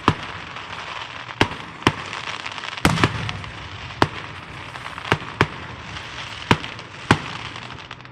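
Fireworks going off: about ten sharp bangs at uneven intervals, with a steady crackling hiss between them.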